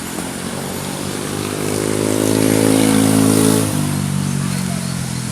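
A motor vehicle's engine running close by, its steady hum growing louder and then dropping in pitch about two-thirds of the way through before going on more quietly.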